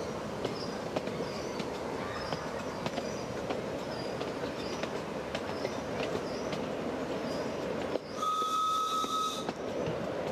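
Miniature railway train running along the track, its wheels clicking over the rail joints, with a single steady whistle blast lasting about a second and a half near the end.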